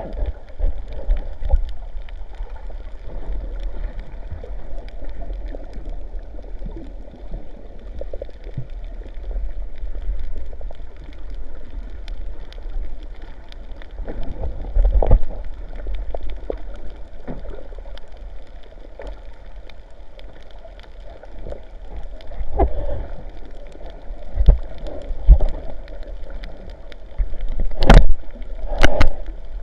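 Sea water sloshing and gurgling close to the microphone, sounding dull, with low thumps throughout and two sharp knocks near the end.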